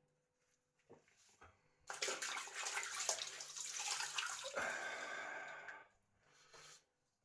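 Running tap water splashing into a sink as shaving lather is rinsed off. It starts about two seconds in, changes character about halfway through, and stops about four seconds later.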